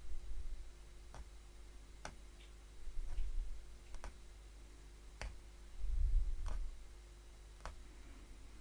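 Hollow punch needle stabbing through fabric, a sharp click with each stroke at an uneven pace of roughly one a second, with a few low muffled bumps of handling between them.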